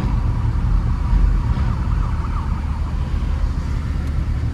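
Steady low car rumble, with a faint siren wailing in the distance.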